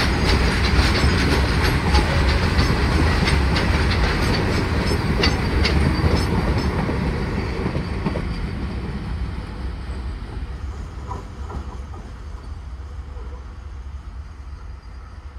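Freight train of open-top wagons passing close by at speed: a steady rumble with the wheels clacking over rail joints. About halfway through the last wagon goes by and the rumble fades steadily as the train moves away.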